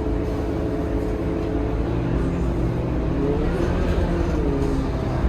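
Scania K230UB city bus's diesel engine running steadily under way. Between about three and four and a half seconds in, a tone rises in pitch and then falls back.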